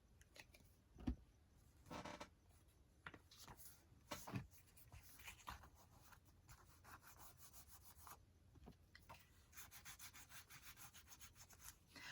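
Faint rubbing and rustling of paper as a freshly glued pocket is pressed and smoothed down onto a journal page by hand, with a soft thump about a second in.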